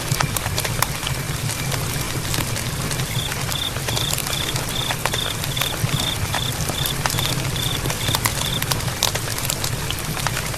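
Campfire crackling with sharp, irregular pops over a steady low rumble. From about three seconds in until near the end, a high animal call repeats about three times a second, then stops.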